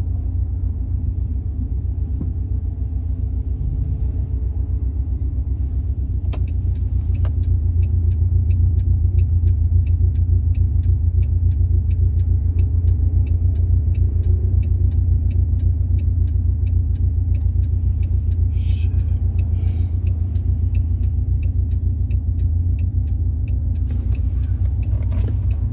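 Dodge Charger's engine and road noise heard from inside the cabin while driving, a steady low rumble that grows a little louder about eight seconds in. A regular ticking starts about seven seconds in.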